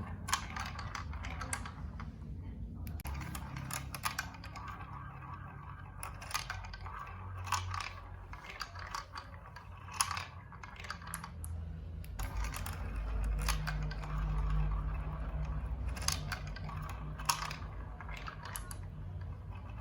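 Irregular sharp plastic clicks and clacks from a building-block marble run: marbles and plastic pieces knocking together. A low rumble runs for a few seconds past the middle.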